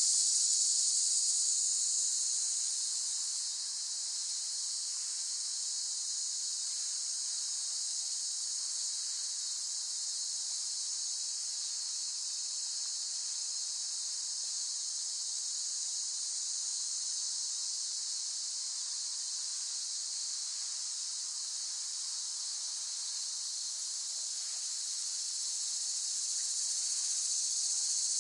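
Cicadas singing in chorus: a continuous high, shrill buzz that eases slightly a few seconds in and swells again near the end.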